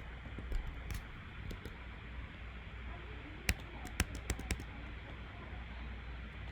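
A handful of sharp clicks and taps over a steady low hum and hiss: one about a second in, then a quick cluster of five or so around the middle, the first of them the loudest.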